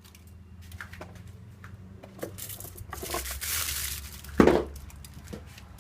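Handling noises from painting a model: small clicks and taps, a rustling scrape lasting about a second, and one louder knock about four and a half seconds in.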